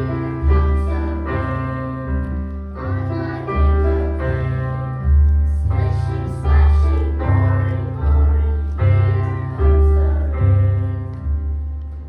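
Piano music: deep bass notes struck about once a second under a higher melody, each note ringing and fading, and the last chord dying away near the end.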